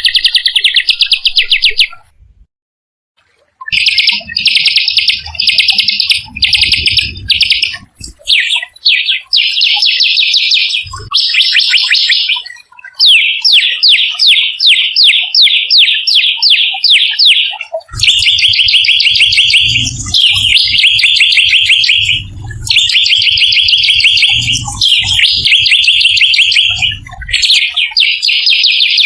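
A small songbird giving rapid, rough trills ('rolls'): bursts about a second long, one after another with short pauses. In the middle the trills give way to a slower run of separate sharp notes. At times a low rumble sits underneath.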